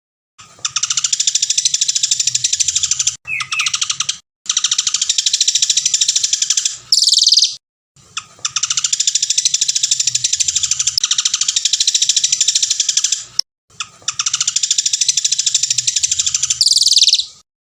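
Songbird singing long, very rapid, high trilling phrases of several seconds each, separated by brief gaps; two of the phrases end in a louder, higher flourish. The phrases repeat almost identically, as in a looped song recording made for training caged songbirds.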